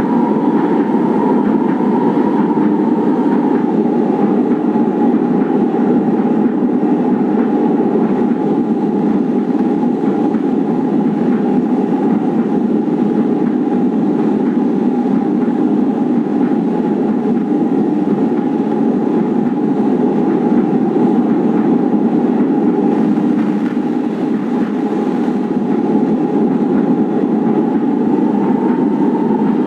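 Manila LRT Line 1 light rail train running along the track: a steady rumble with a whine from the running gear that drops slightly about three seconds in and climbs again near the end.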